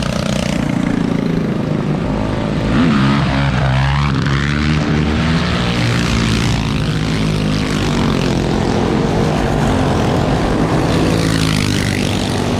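Several small minibike engines running together, one revving up about three seconds in, with a steady droning hum throughout.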